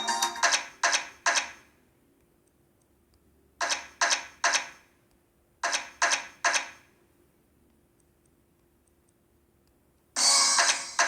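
Video slot machine game sounds: three sets of three sharp, ringing strikes about half a second apart, with short gaps between sets. A loud burst of game music comes in near the end.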